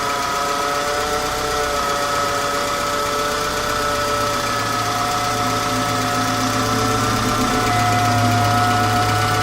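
Peugeot 206 1.1-litre petrol engine running with an abnormal whine from its power-steering pump: several steady high tones over the engine's low hum, one tone stepping up in pitch about seven seconds in.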